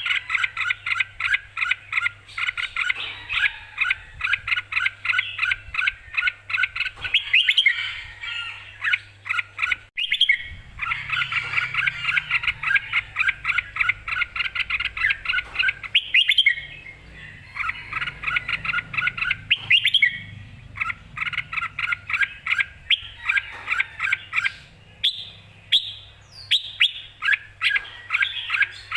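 Red-whiskered bulbul singing full-on: quick chirping notes repeated several times a second in long runs, broken by brief pauses.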